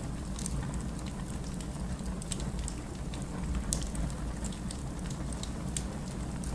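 Firewood burning in a fireplace, crackling with frequent irregular sharp pops over a steady low rumble.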